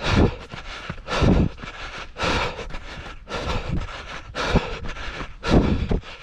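A runner's heavy breathing while running, one loud breath about every second.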